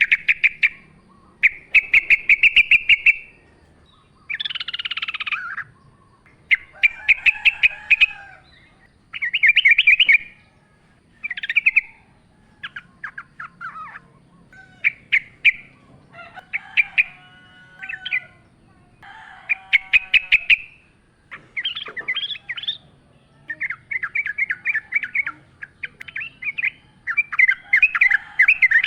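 Yellow-vented bulbul (trucukan) calling: short bursts of quick, bubbling chattering notes, repeated every second or two with brief gaps between.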